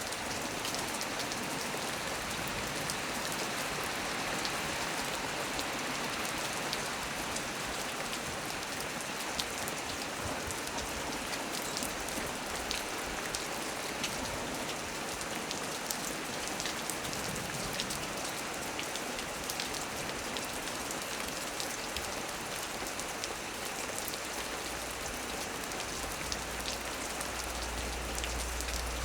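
Heavy rain falling steadily on a small tree, with many separate drops ticking through the hiss. A low rumble comes in near the end.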